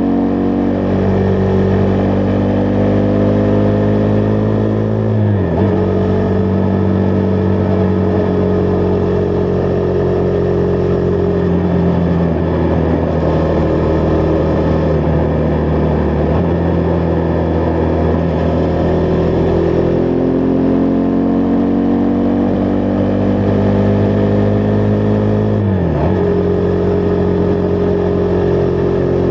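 Husqvarna Vitpilen 401's single-cylinder engine running under way, the pitch rising slowly as the bike accelerates, then dropping sharply at an upshift about five seconds in. It holds a fairly steady cruise for a while, climbs again and drops at a second gear change near the end, over a steady rush of wind.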